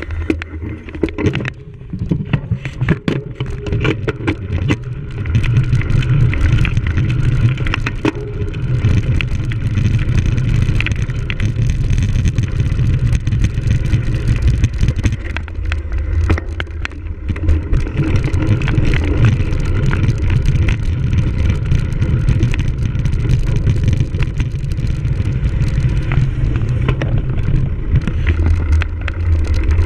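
Steady rumble and buffeting on a bicycle-mounted camera as a cyclocross bike races over rough ground, with frequent clattering knocks from the bike rattling over bumps.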